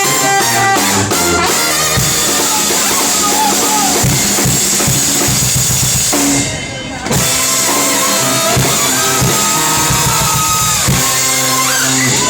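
Live brass band with horns, sousaphone and drum kit playing an up-tempo tune, with steady drum hits under the horns. The band stops briefly about six and a half seconds in, then comes back in together.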